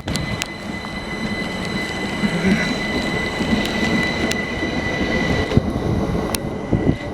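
Southern Class 387 electric multiple unit pulling out of the station, with a steady high-pitched whine over the rumble of its running gear and a few sharp clicks. A rising tone begins near the end.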